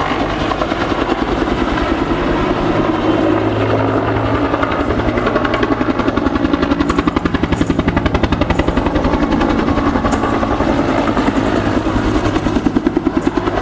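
Aircraft flying past with a loud, steady throbbing beat of engine and blades that pulses most strongly in the second half.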